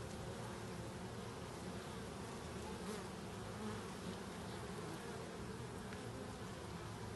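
Honeybees buzzing steadily around a hive, a continuous low hum of many bees.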